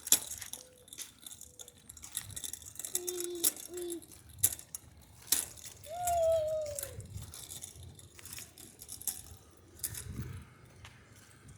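Bicycles clicking and rattling as they are ridden. A few short pitched calls sound over them: two brief notes about three seconds in, and a longer, slightly falling one about six seconds in.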